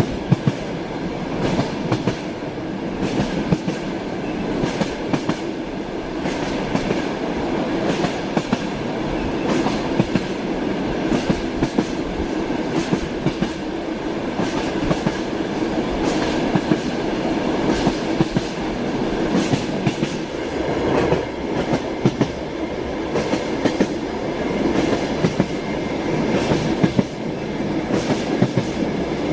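Passenger train running, heard from inside a carriage: a steady rumble with the wheels clicking irregularly over rail joints.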